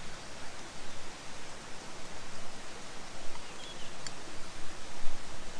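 Steady rushing outdoor background noise, with a couple of faint high chirps and a light tick about three and a half seconds in.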